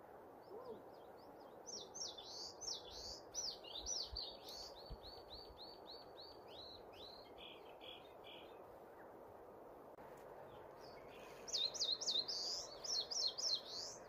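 A songbird singing two long, rapid phrases of many quick slurred notes. The first phrase runs for about eight seconds and trails off into softer notes. The second, louder phrase starts about three seconds later. A steady low background rush runs throughout.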